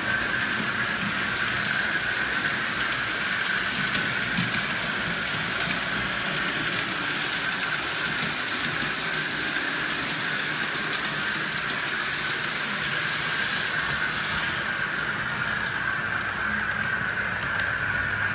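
OO gauge model train running along the track: a steady electric motor whine with the rumble and light clatter of wheels on the rails.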